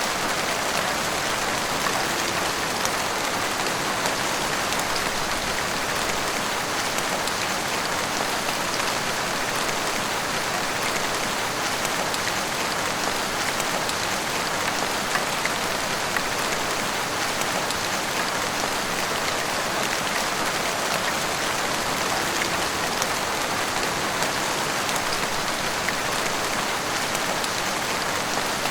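Heavy rain falling steadily, pattering on roofs and the street, with scattered drips.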